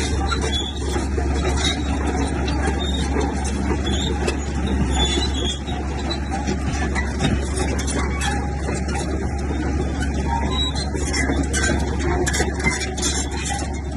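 Komatsu bulldozer's diesel engine running steadily under load, with a rapid run of clicks from the machine growing busier near the end.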